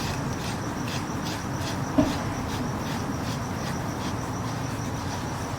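Cricket chirping in an even rhythm, about three chirps a second, over a low steady hum, with a single light knock about two seconds in.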